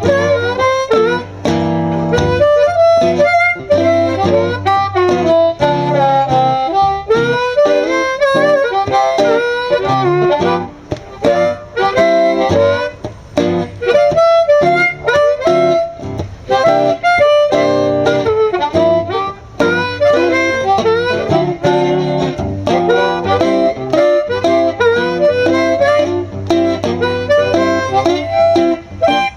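Live blues instrumental break: a harmonica solo with sliding, bending notes over rhythmic guitar accompaniment.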